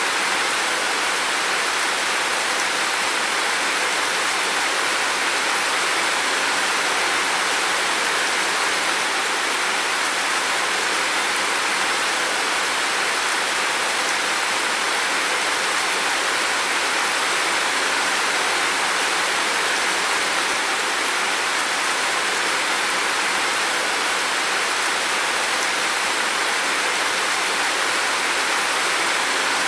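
Heavy rain falling in a steady, unbroken hiss, with no distinct drops or thunder.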